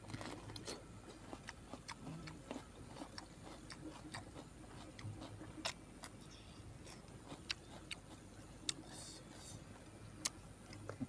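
A person eating and chewing, with irregular small wet clicks and lip smacks.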